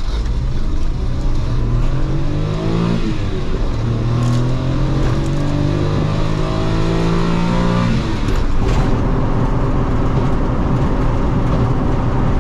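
Suzuki Alto's 660cc three-cylinder engine heard from inside the cabin, accelerating hard with the pedal to the floor: the engine note climbs, drops at a gear change about three seconds in, climbs again for several seconds and breaks off near the end of the climb.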